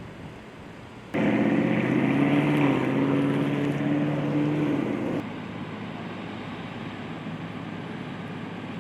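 An engine running steadily at an even pitch, loud for about four seconds: it starts abruptly about a second in and cuts off suddenly, leaving a lower steady outdoor hum.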